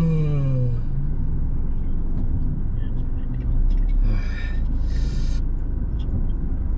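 Car idling while stopped, heard from inside the cabin as a steady low rumble. A voice trails off in the first second, and there is a short burst of sound about four seconds in, then a brief hiss about five seconds in.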